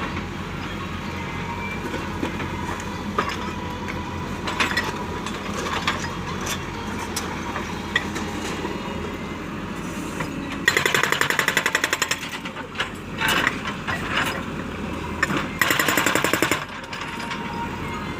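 Heavy diesel machinery running steadily, with three bursts of rapid rattling pulses, the longest lasting about a second and a half, from about ten seconds in.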